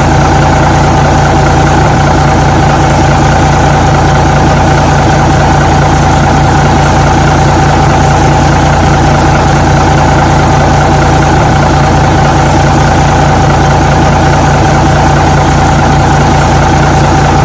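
Truck engine idling steadily, a constant low rumble with a steady hum that does not rise or fall.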